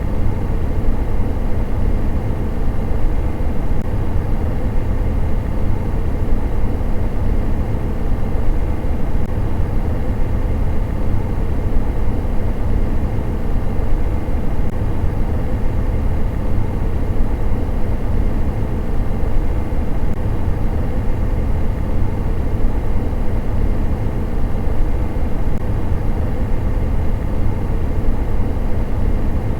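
Electric fan running steadily: a constant whoosh of moving air, heaviest in the low end, with a faint steady hum higher up.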